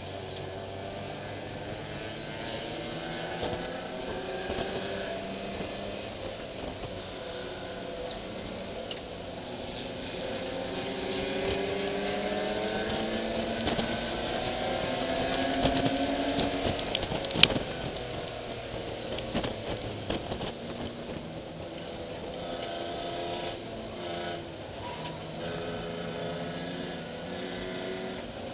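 1987 BMW E30 325iS's M20 inline-six engine running hard on track, its revs climbing and falling as it drives. A single sharp click stands out about seventeen seconds in.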